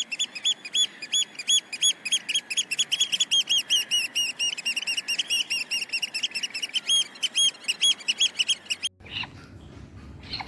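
A bird chirping in a fast, unbroken series of short, high, rising-and-falling chirps, several a second. The chirping stops abruptly about nine seconds in, leaving a quieter background with a few faint clicks.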